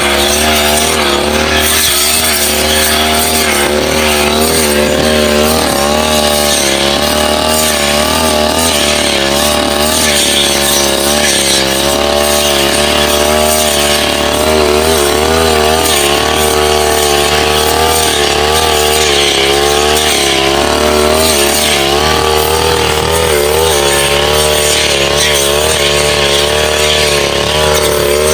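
Brush cutter engine running loud and continuously, its pitch wavering up and down as it cuts through saplings and grass.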